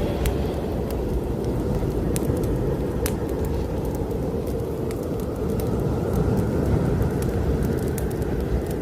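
Strong snowstorm wind as a steady low rush, swelling a little about two-thirds of the way through, mixed with a fireplace fire crackling in scattered sharp pops.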